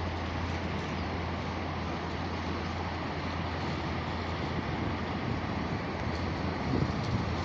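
Swollen Swat River floodwater rushing steadily, a continuous even noise with a constant low rumble.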